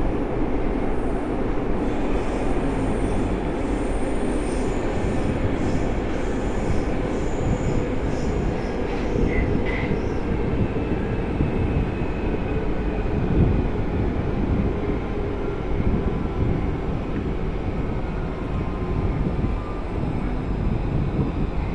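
Cabin ride noise of an Alstom AS-02 metro train running between stations: a steady rumble of wheels on rail. Faint high-pitched squealing comes and goes over roughly the first half.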